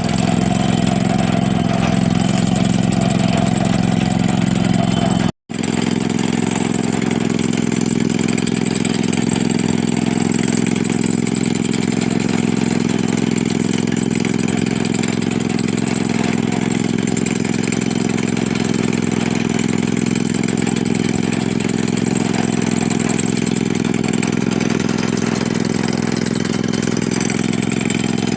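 An engine running steadily at idle, with an even, unchanging note. About five seconds in the sound cuts out for an instant, then resumes at the same level.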